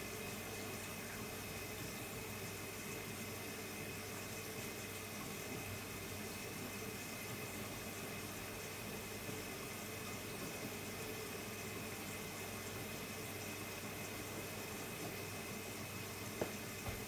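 Hotpoint-Ariston Aqualtis washer-dryer taking in water: a steady rush of water filling the drum, with a faint steady hum and one short click near the end.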